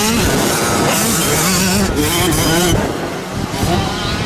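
Several motocross bikes' engines running on the track, their revs rising and falling as they ride.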